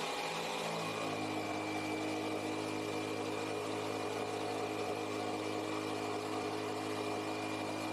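An engine or motor running steadily, an even hum whose tone shifts slightly about a second in.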